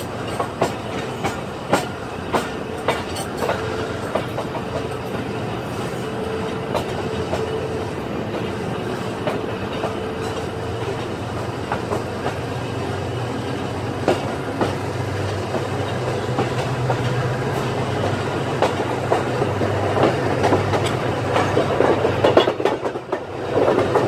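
Passenger coach of a moving train, heard from its open window: wheels clicking over rail joints over a steady rumble of running noise, growing louder toward the end.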